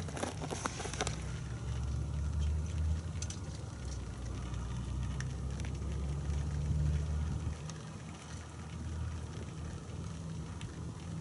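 Faint crackling and pattering of snow foam dripping and popping on a freshly foamed car, over a low steady rumble.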